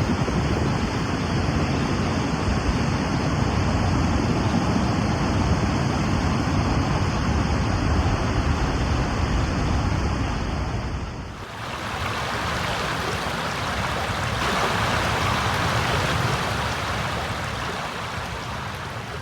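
Steady rushing water noise, heavy in the low end. About eleven seconds in it changes abruptly to a brighter, hissier rush.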